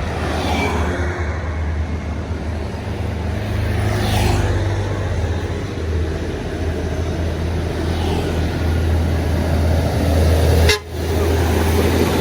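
Heavy diesel vehicles passing with their engines running in a steady low hum, and a vehicle horn sounding.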